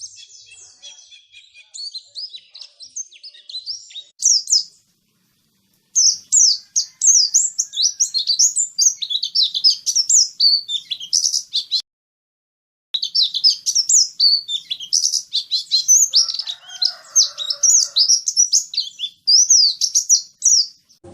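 White-eye (pleci) singing a fast, high-pitched twittering song in long runs of rapid notes, broken twice by a second or so of silence. It is a lure song used to get caged white-eyes to start singing.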